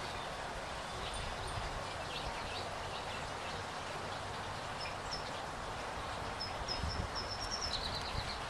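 A small bird chirping: a few short high notes about halfway through, then a quicker run that drops in pitch near the end, over a steady outdoor hiss.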